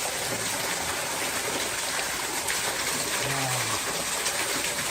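Waterfall pouring down in a steady, even rush. A brief low voice sounds faintly about three seconds in.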